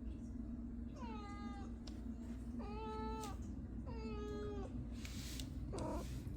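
Domestic cat meowing three times, each call about half a second long, then a shorter, lower mew near the end, over a steady low hum. The cat is asking to be let out.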